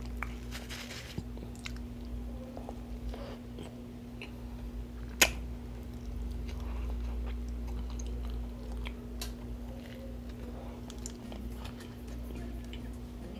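A person chewing and biting into a fast-food burger, with small wet mouth clicks throughout and one sharp click about five seconds in, over a steady low hum.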